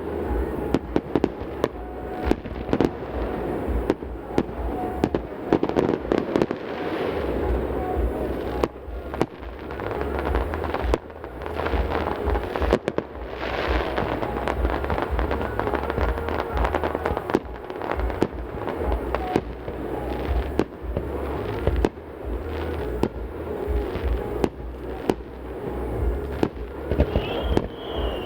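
Fireworks display: a dense, continuous barrage of shell bursts and sharp crackling reports with deep booms, echoing around a mountain valley. Near the end a brief falling whistle sounds among the bursts.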